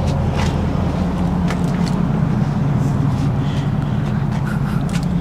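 1991 International haul truck's Cummins diesel engine idling steadily.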